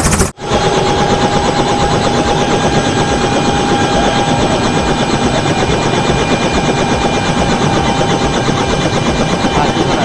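Helicopter running close by: rapid, loud rotor chop with a steady whine above it, broken by a brief cut just after the start.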